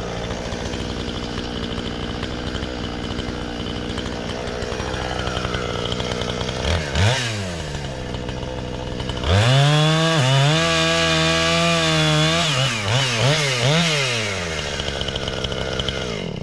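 Two-stroke gas chainsaw idling, with a quick rev about seven seconds in. Just after nine seconds it runs at full throttle for about three seconds, gives a few short revs, drops back to idle, and the engine cuts off abruptly at the end.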